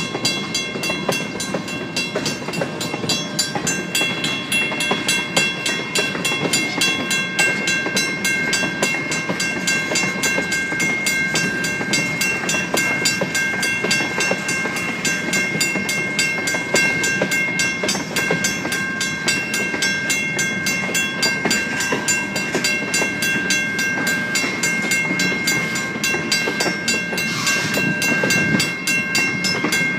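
Freight cars rolling past at a grade crossing, wheels clattering on the rail joints, while the crossing's WCH first-generation mechanical bell rings in quick, evenly repeating strokes.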